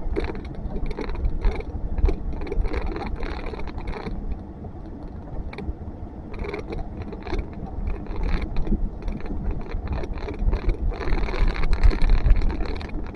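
Blizzard wind gusting hard across the microphone: a deep, rumbling buffet with irregular rushing surges, strongest near the end.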